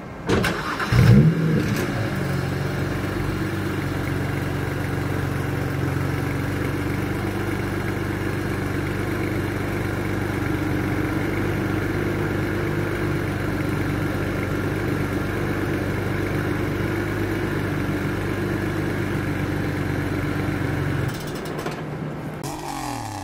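2008 BMW 335i's twin-turbo 3.0-litre inline-six cold-started: a brief crank, then the engine catches and flares up in revs about a second in. It settles into a steady idle. Near the end it is switched off and winds down.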